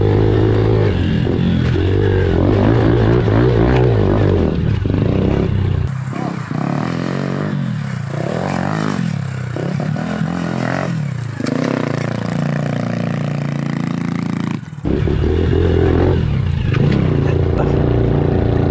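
Pit bike engine being ridden hard, its revs climbing and dropping again and again as the throttle is worked. The sound changes abruptly twice, about six seconds in and again near fifteen seconds, as between separate riding shots.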